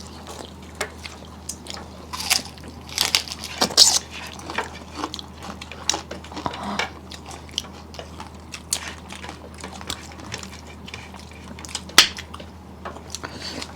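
Close-up mouth sounds of people eating: chewing with wet lip smacks and short sharp clicks. A cluster of louder smacks comes about two to four seconds in and a single sharp one near twelve seconds, over a steady low hum.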